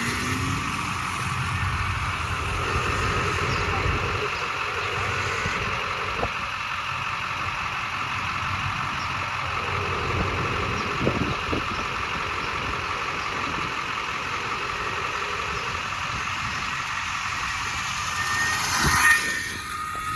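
Electric minibike under way: a steady whine from its electric motor and chain drive over road and wind noise, briefly louder near the end.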